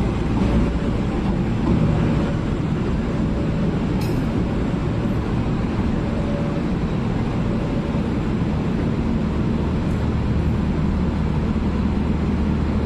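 Passenger train hauled by two diesel locomotives rolling through a station, a steady loud rumble of engines and wheels on the rails.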